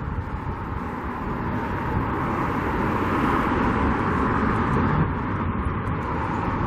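Roadside traffic noise, swelling slightly in the middle as vehicles go by, with wind rumble on the microphone.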